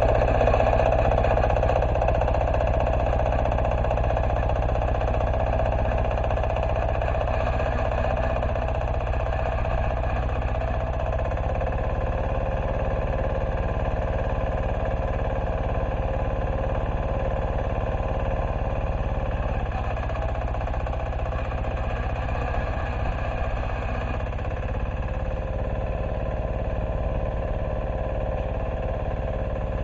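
Diesel engine of a Neva MB-2 walk-behind tractor running steadily under load while it ploughs, the sound slowly getting quieter.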